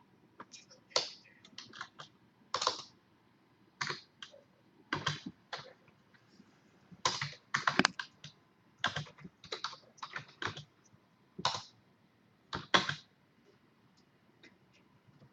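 Typing on a computer keyboard: irregular keystrokes, singly and in quick runs, with short pauses between them.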